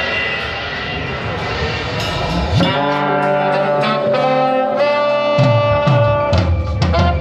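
Live brass band starting to play about two and a half seconds in: horns hold sustained chords over a low bass line.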